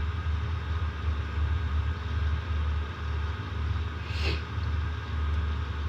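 Outdoor air-conditioner condensing unit, a 1.5-ton Weather King, running with a strong low hum that swells and dips unevenly. Its compressor is failing and grinding, which the owner puts down to damaged internal scrolls. A short higher sound cuts in once, about four seconds in.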